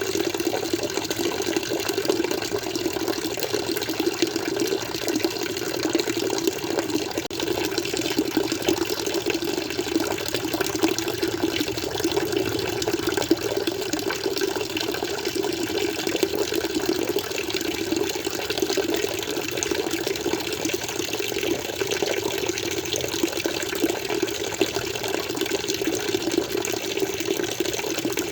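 Aquarium water flowing and splashing in a steady, unbroken rush with a fine bubbling crackle.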